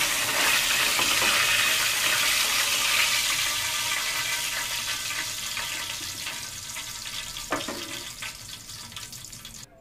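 Chicken pieces sizzling in hot oil in a stainless steel pot, the sizzle slowly dying down, with a sharp knock or two of metal tongs against the pot.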